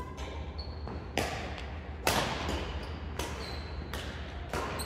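Badminton rally: rackets striking the shuttlecock about once a second, the loudest stroke about two seconds in, with short high squeaks between the strokes.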